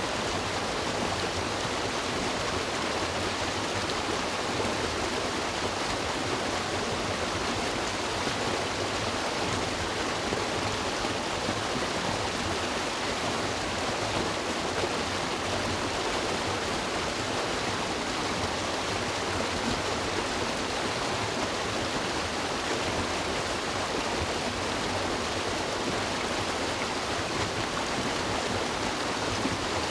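River water rushing and babbling over rocks in a steady, even flow.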